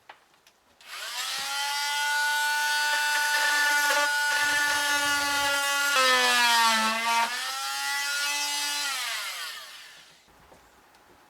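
Handheld electric power tool spinning up, running steadily with a high whine, dropping in pitch briefly as it takes load, then winding down near the end.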